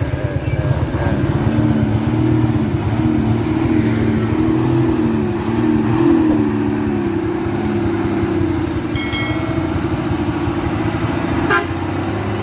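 Mitsubishi 190 PS truck's diesel engine running under load, its pitch wavering up and down. A brief high squeak comes about nine seconds in and a sharp knock near the end.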